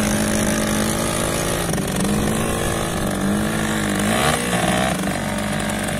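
Motorcycle engine running, its pitch rising and falling every second or so with the throttle.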